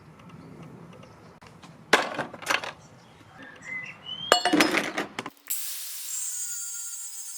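Hand tools knocking and clinking on metal parts: two sharp strikes about two seconds in, then a cluster of clinks. Near the end, a power tool starts running with a steady high whine.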